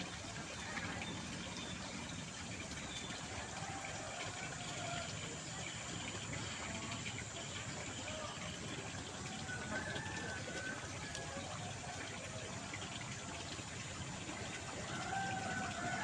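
Steady rush of flowing water, with a distant rooster crowing faintly about ten seconds in and again near the end.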